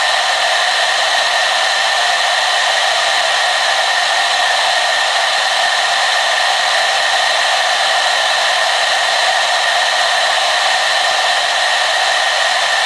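Hair dryer running steadily on one setting, a continuous airy whoosh with a high motor whine and no change in pitch or level.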